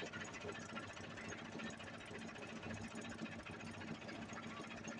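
An engine running steadily with a fast, even mechanical clatter.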